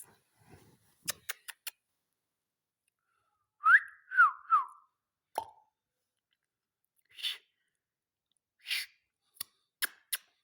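Three short whistled notes in quick succession, the first rising and the next two falling, set among sharp clicks. Later come two short harsh rasping bursts.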